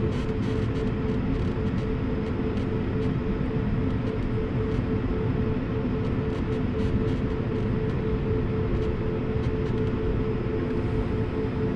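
Airbus A220-300's Pratt & Whitney PW1500G geared turbofan engines running at high power, heard inside the passenger cabin as a steady rushing drone with a held hum.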